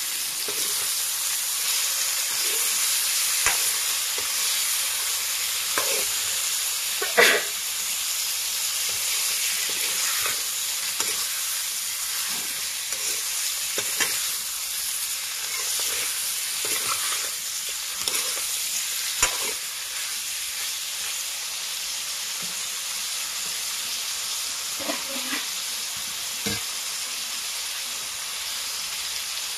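Pork and taro pieces sizzling as they fry in a metal wok while a spatula stirs them, with now-and-then scrapes and knocks of the spatula against the wok, the loudest about seven seconds in.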